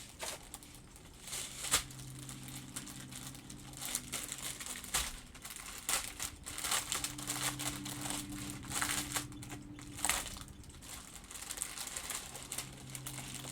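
Small plastic baggies of diamond painting drills being handled, crinkling with irregular sharp crackles.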